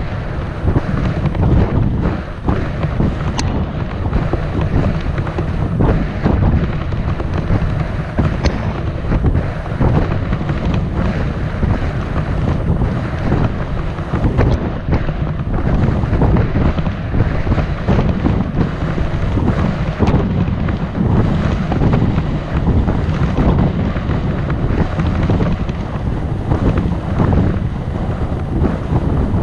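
Wind buffeting the microphone of a camera carried on a moving bicycle, a loud, steady, low rumble.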